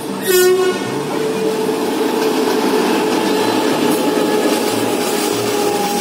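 Rajdhani Express train running through a station at speed: a steady rumble and clatter of wheels on rail with a held whining tone over it. A short, sharp blast sounds about a third of a second in.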